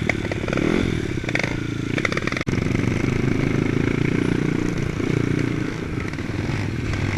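Jotagas trials motorcycle engine running and being revved, its pitch rising and falling with the throttle, with some mechanical clatter.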